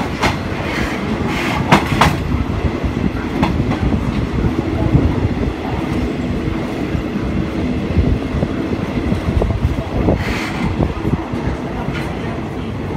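Passenger train carriage rolling on the track, heard through an open window: a steady rumble from the wheels with sharp clacks as they pass over rail joints and points. A brief louder hiss comes about ten seconds in.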